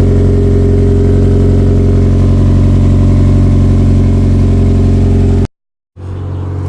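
Toyota MR2 Turbo's 3S-GTE turbocharged four-cylinder engine idling steadily. The sound cuts off abruptly about five and a half seconds in.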